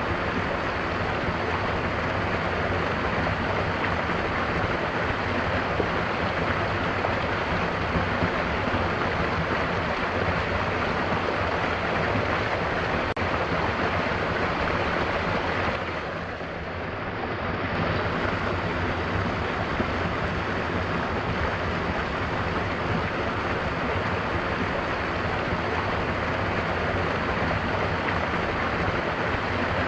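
Mountain waterfall rushing steadily, a dense roar of falling water that dips briefly in level a little over halfway through.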